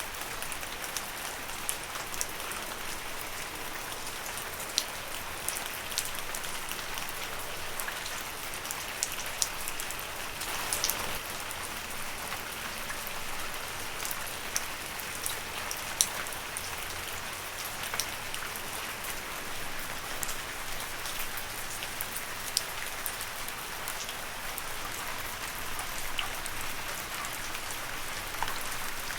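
Steady rain falling on leaves, an even patter with scattered louder drips.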